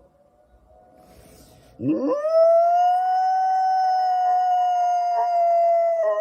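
A dog howling: after a quiet start, one long howl swoops up about two seconds in and is held at a steady pitch.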